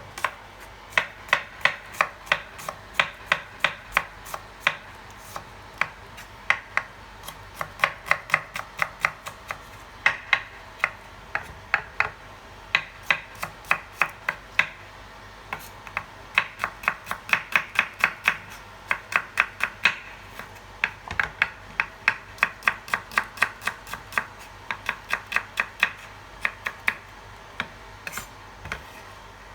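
Knife slicing shallots thinly on a cutting board: quick runs of sharp chops, several a second, broken by short pauses.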